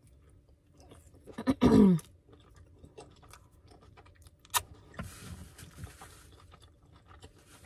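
A person eating a pita veggie taco: chewing and mouth noises, with a short voiced sound falling in pitch about one and a half seconds in, the loudest moment, a sharp click around four and a half seconds, and steadier chewing noise from about five seconds on.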